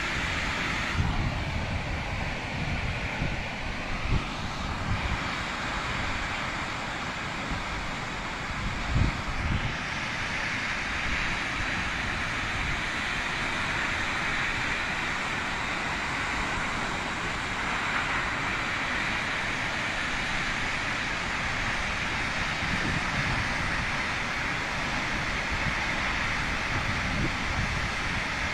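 Waterfall rushing in a steady, even roar of falling water. Wind on the microphone adds a few low thumps, the strongest about nine seconds in.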